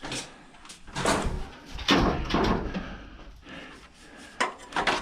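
Metal scraping and clunking as hand tools work at an old microwave oven's sheet-metal housing, with a scrape about a second in, a longer one around two seconds, and two sharp knocks near the end.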